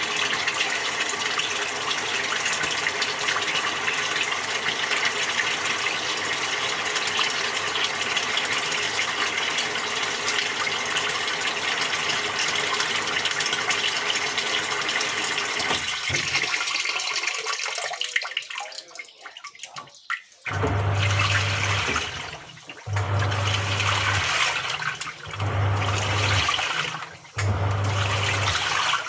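Water running steadily through a Samsung 6.5 kg top-loading washing machine, fading out about two-thirds of the way through. The water then comes back in short on-off bursts of about two seconds each, four times, each with a low hum.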